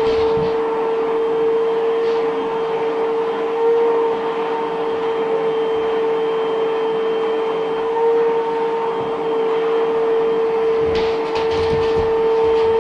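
Vacuum cleaner running steadily, a constant motor whine over rushing air, as it is used to vacuum a dog's coat. A few light knocks near the end.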